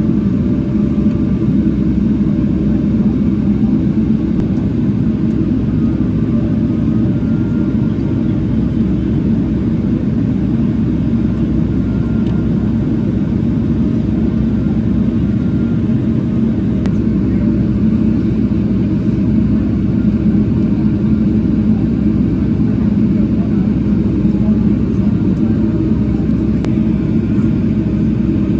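Steady low rumble of a Boeing 777-300ER heard from inside the economy cabin, engines running.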